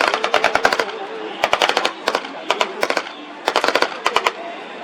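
Automatic weapons firing in several short, rapid bursts of a few rounds each, about ten shots a second within a burst. Onlookers take the rounds for blanks.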